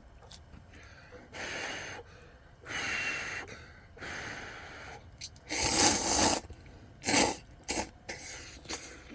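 Ramen noodles being slurped: a series of airy slurps, each up to about a second long, the loudest about six seconds in, followed by a few shorter ones.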